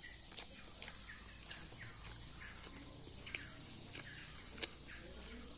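Faint, scattered short bird chirps, with a few sharp clicks and a low steady hum underneath.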